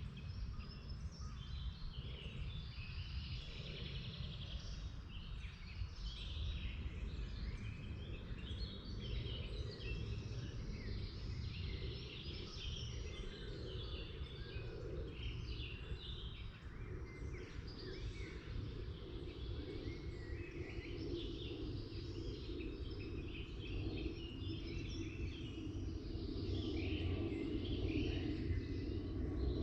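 Many songbirds chirping and singing in quick overlapping phrases, over a steady low rumble of background noise. A low hum grows louder near the end.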